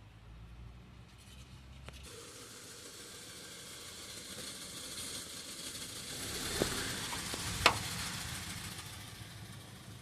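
Rising and falling hiss like a vehicle going by, swelling to a peak a little past the middle, with two sharp clicks near the loudest part, then fading.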